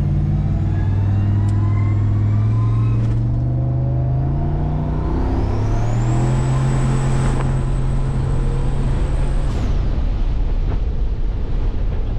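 Turbocharged LSA V8 in a 1987 Chevrolet Caprice accelerating hard on a test run, heard from inside the cabin: the engine note climbs, dips at upshifts about 3 and 5 seconds in, and climbs again, while the new VS Racing 80 mm turbo's high whine rises and holds. Near the end of the run the engine note and whine cut off together as the throttle is released, leaving wind and road rush.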